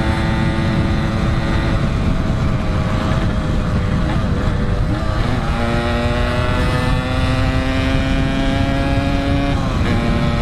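Yamaha RX-King's 135 cc two-stroke single-cylinder engine running on the move, its pitch wavering about halfway through, then climbing slowly before dropping sharply near the end.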